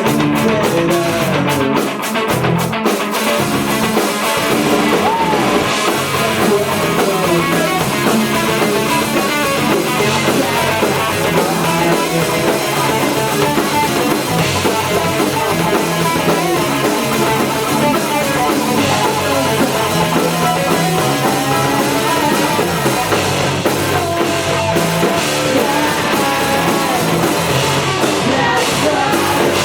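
Rock band playing a song live in a rehearsal room: guitar, bass and drum kit together, loud and steady.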